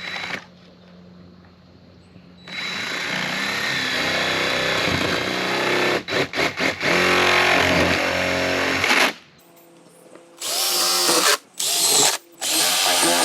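Power drill boring starter holes through a camper roof panel for an air-conditioning cutout. One long run of about six seconds, briefly stopping and restarting partway through, then three short bursts near the end.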